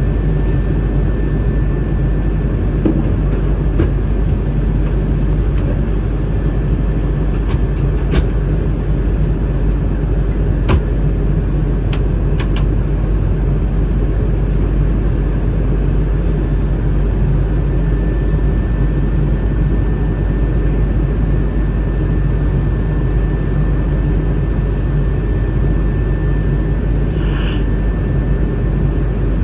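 Steady cabin noise of an Airbus A319 in flight: a loud, even rumble of its CFM56 engines and rushing air with a thin steady whine above it, during the descent toward landing. A few brief clicks come about a third of the way in.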